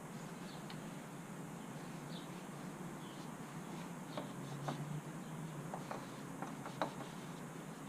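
Faint rubbing of an applicator wiping trim coating onto plastic under-hood parts, with scattered small ticks and clicks over a low steady hum.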